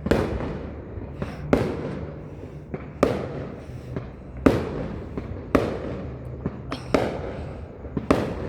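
Fireworks going off in a rapid string of sharp, loud bangs, about one a second with a few smaller pops between, each bang trailing off in a fading echo.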